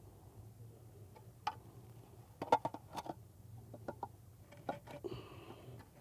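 Scattered light knocks and clicks from concrete blocks and hand tools being handled and set down, with a cluster of them about two and a half to three seconds in.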